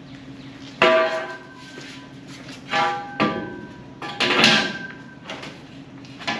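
Large homemade rolling shop door being pushed open, giving several irregular bursts of metallic squealing and ringing as it moves.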